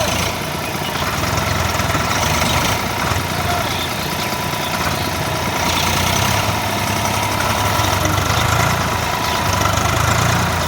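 Tractor engine running hard and straining, its low rumble swelling and easing several times as it tries to tow a stuck tractor free.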